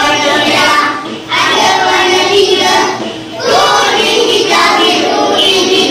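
A class of young children singing together in unison, phrase by phrase, with short breaks about a second and three seconds in.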